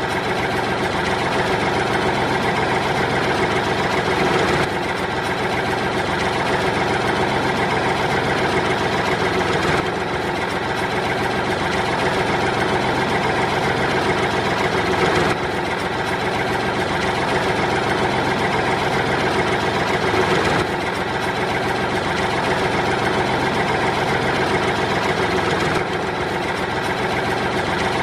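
Steady engine idling sound that repeats in a loop, its level stepping slightly about every five seconds.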